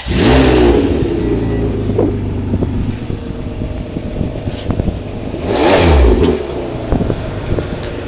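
Ferrari engine revved hard twice, about five seconds apart. Each rev climbs and falls back to a steady idle in between.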